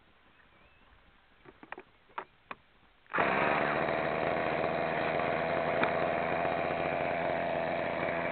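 A few sharp clicks, then about three seconds in the small two-stroke glow (nitro) engine of a Raptor 30 model helicopter starts up suddenly and runs steadily and loudly.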